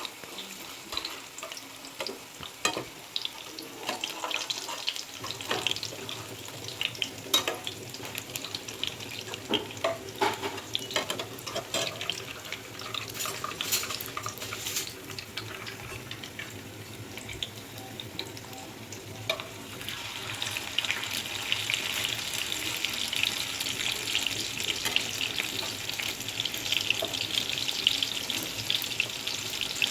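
Oil sizzling and crackling in a pan as square appalam (papad) pieces fry, with many small pops; the sizzle grows louder and denser about two-thirds of the way through.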